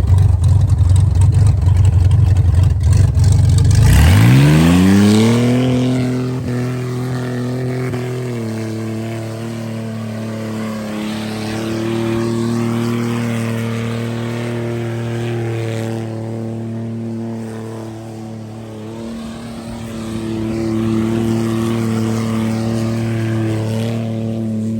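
Car engine with a low, rapidly pulsing rumble for about four seconds, then revving up over a couple of seconds and held at a steady high pitch, sagging slightly now and then.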